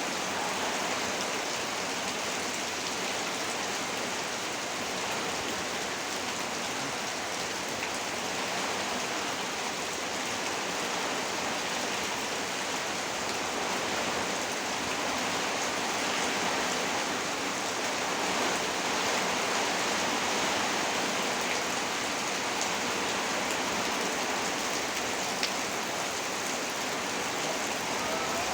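Heavy rain falling steadily, an even downpour without a break.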